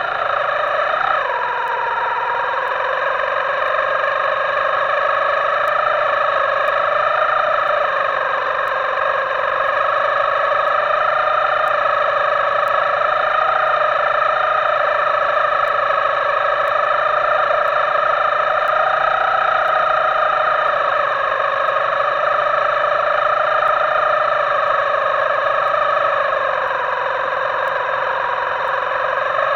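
Small electric motor of an RC boat running with a steady high whine. Its pitch wavers slightly with throttle and drops sharply about a second in.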